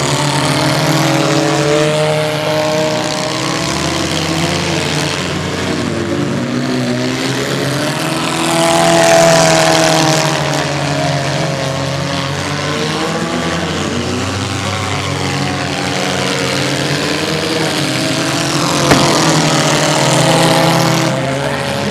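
Several mini-class cars racing round a figure-8 track, their engines revving up and down as they pass, the loudest pass about nine seconds in. A single sharp knock comes near the end.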